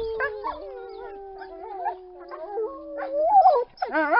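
Wolves howling. One long howl holds and slowly falls in pitch for about three seconds while a second voice wavers above it, then several voices join in overlapping, wavering howls near the end.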